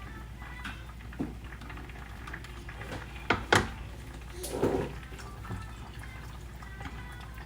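Kitchen handling sounds: light clinks and taps of dishes, two sharp knocks about three and a half seconds in, then a brief rush of liquid.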